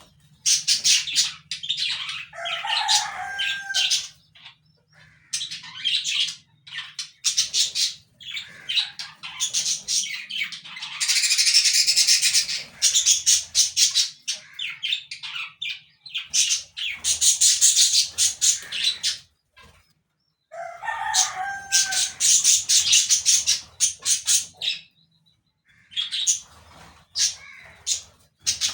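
Parakeets chirping and chattering in fast, high bursts of a few seconds each with short pauses between, and a lower call twice, about two seconds in and again about twenty-one seconds in.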